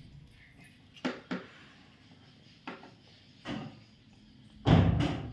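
A few short knocks, followed near the end by a louder, longer clatter.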